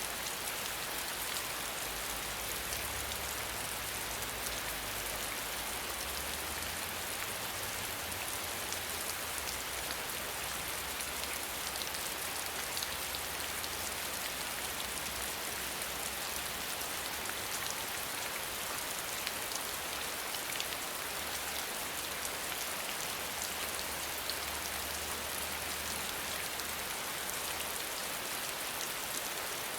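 Steady rain falling: an even hiss with many small raindrop ticks through it.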